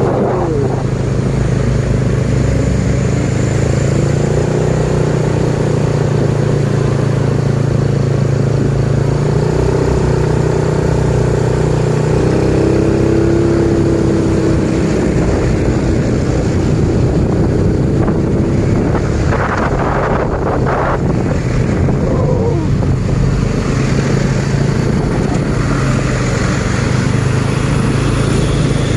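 Medium truck engine running steadily under way, with a slight rise and fall in pitch partway through and a few brief knocks about twenty seconds in.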